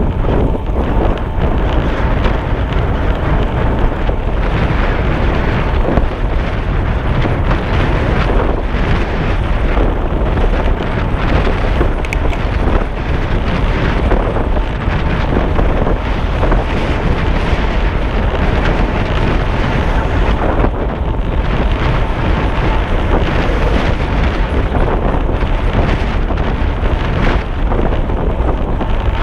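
Steady, loud wind noise buffeting the microphone as it moves along the road on a ride.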